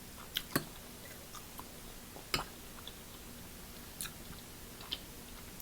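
Faint close-miked chewing of food, with a few scattered sharp mouth clicks and smacks.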